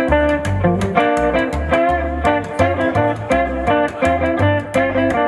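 Live band playing an instrumental passage of a bluesy rock song: guitar over bass notes and a steady drum beat, with no singing.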